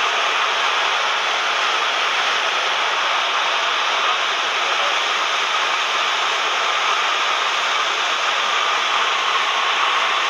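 Steady cabin noise inside a Cessna 172M in flight: the engine and propeller with the airflow blend into an even, unchanging noise.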